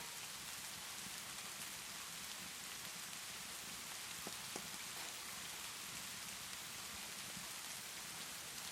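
Steady rainfall, an even hiss, with a few faint sharp crackles from a wood fireplace scattered through it, two of them close together about four and a half seconds in.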